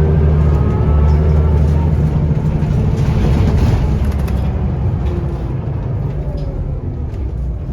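Scania L94UB bus's diesel engine and ZF automatic gearbox under way, heard from inside the cabin. The heavy engine drone eases off about four and a half seconds in.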